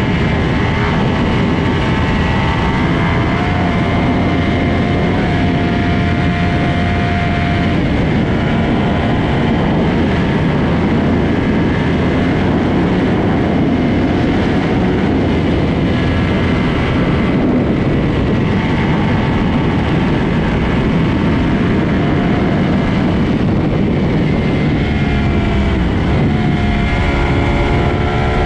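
Sport motorcycle engines running hard on a highway, their pitch repeatedly climbing and then dropping as they are revved through the gears, over a steady loud rush of noise.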